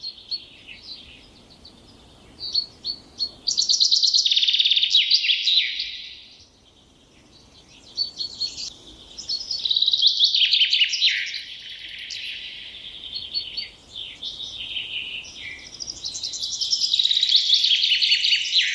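A songbird singing: long phrases of fast trills and chirps, three loud stretches each a few seconds long, with quieter chirping between them.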